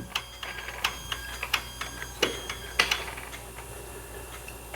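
Irregular small plastic-and-metal clicks and ticks, mostly in the first three seconds, as a 5 amp fuse is worked into the fuse panel of a 2016 GMC Sierra 2500HD. Under them is a faint steady electrical buzz, which the mechanic takes for the throttle body staying active, part of a parasitic battery draw.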